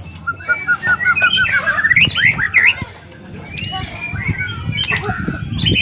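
White-rumped shama singing vigorously: a quick run of repeated notes climbing in pitch, then varied whistled phrases and sharp, high falling notes.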